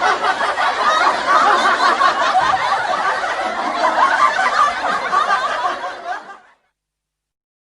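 A group of people laughing and chuckling together, many voices overlapping like a sitcom laugh track. It fades out about six seconds in and cuts to silence.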